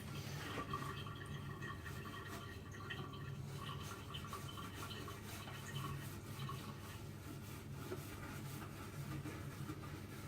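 Scrubbing and wiping at the inside of a microwave with a cloth or sponge, a soft repeated scratchy rubbing over a steady low hum.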